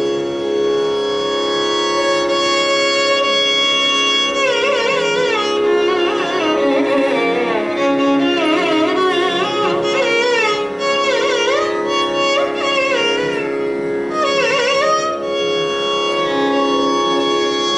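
Carnatic music: a violin plays a melody full of quick oscillating ornaments (gamakas) over a steady drone.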